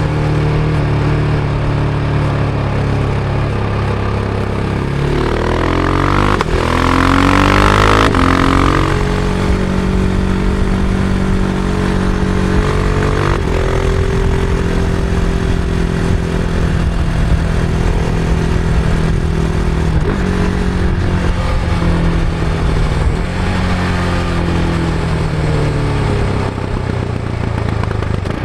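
Husqvarna Vitpilen 701's single-cylinder engine on its stock exhaust, heard from on board while riding. It runs steadily, then about five seconds in it revs up hard with two quick breaks in pitch where the gears change. After that it settles into a steady cruise with small throttle changes.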